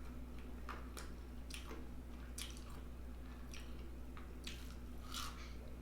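Fried chicken being chewed close to the microphone: soft wet mouth clicks and smacks, about one or two a second, over a faint steady hum.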